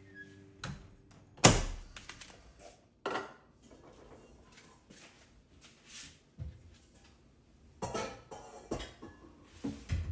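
Kitchenware being handled: a sharp knock about one and a half seconds in, the loudest, another about three seconds in, then scattered quieter clinks and thuds of dishes and utensils.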